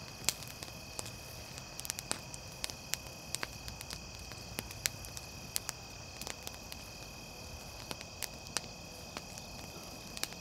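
Wood campfire crackling, with irregular sharp pops and snaps, over a steady high insect drone and a low hum of distant highway traffic.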